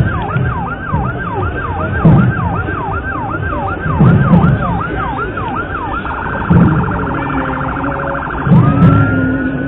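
Electronic emergency-vehicle siren cycling through its tones: a fast yelp of falling sweeps, about three a second, switches about six seconds in to a rapid warble, then to a slow rising wail near the end.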